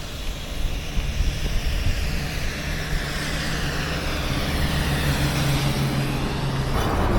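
A motor vehicle going past the bike, its engine hum and tyre noise building over several seconds and changing abruptly near the end.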